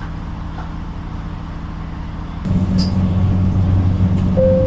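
Diesel engine of a Class 3000 train running under the floor, a steady low drone that steps up to a louder, heavier drone about two and a half seconds in. A short click follows, and a steady tone starts near the end.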